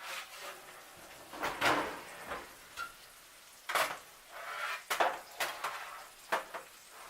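Kitchen clatter of a pan and utensils: a string of sharp metal clanks and knocks as cookware is handled and set down, the loudest about two seconds in and again around four, five and six seconds in.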